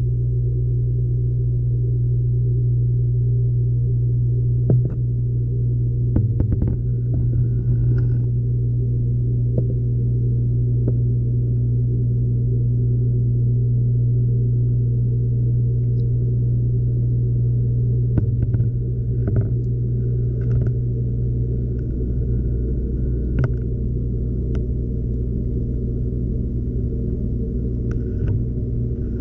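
LG washing machine running, heard from inside the drum: a steady low hum, with scattered knocks and clicks as the load tumbles against the drum.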